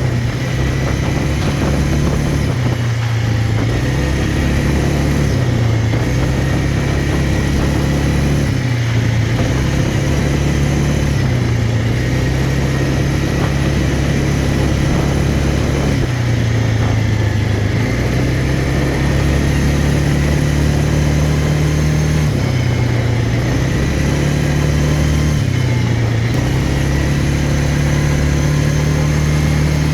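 Quad bike engine running steadily, its pitch dipping and rising every few seconds as the throttle is eased off and opened again.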